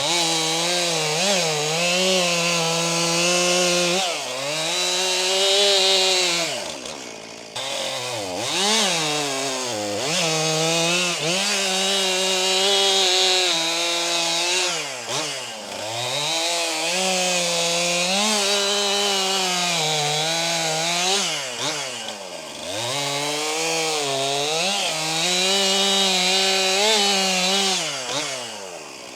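New Stihl MS261 C two-stroke chainsaw cutting wood at full throttle, the engine pitch sagging and recovering about half a dozen times as the throttle is let off between cuts.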